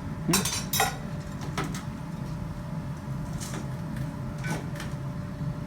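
Blacksmith's hammer striking a red-hot mild steel bar on the anvil, a few irregularly spaced blows as the end of a chain link is bent over, with a steady low hum underneath.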